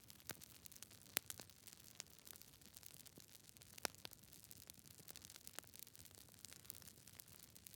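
Campfire burning, the wood crackling with scattered sharp pops at irregular intervals over a faint steady hiss. The loudest pops come about a second in and near the four-second mark.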